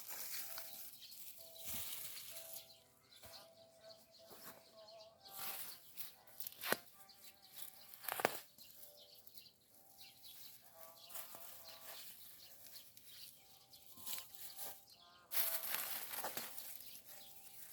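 Birds calling again and again with wavering, pitched calls, over a faint hiss, with a couple of sharp snaps or knocks about halfway through.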